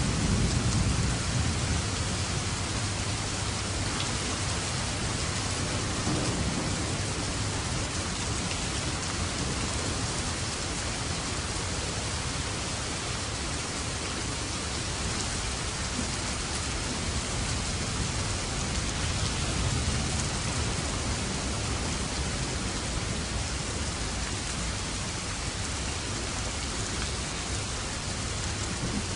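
Steady heavy rain falling on a surface, with low rumbles of thunder swelling near the start and again a few times through it.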